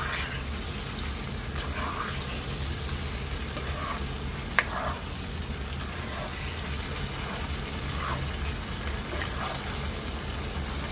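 Chicken and potato curry sizzling as its thick masala fries in a non-stick wok with a little water, while a spoon stirs it, scraping through the pan every second or two. There is one sharp knock of the spoon on the pan about four and a half seconds in.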